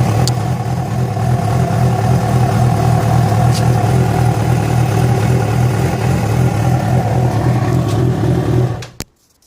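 Yamaha FZ6's 600 cc inline-four engine running steadily with the strange noise that began after it was ridden about 70 km on two cylinders because of a failed ignition coil connector. The engine cuts off near the end, followed by a single click.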